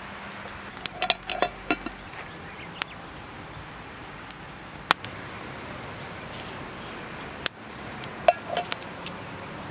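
Scattered sharp clicks and knocks, with two short clusters of light metallic clinks, about a second in and again near the end: hard objects being handled and set down.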